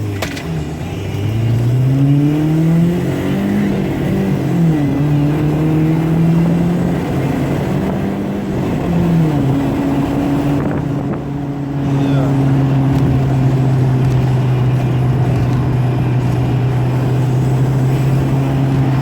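BMW car engine pulling away and accelerating, its pitch climbing and dropping with a few gear changes, then settling into a steady cruise.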